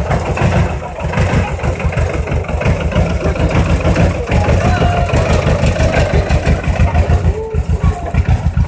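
Tractor engine running, a fast low pulse of firing strokes throughout.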